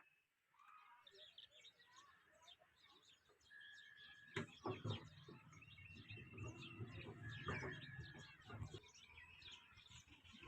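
Faint chirping and twittering of small birds, with a few held whistled notes. About four seconds in, some knocks and a low rumble come in and last until nearly nine seconds.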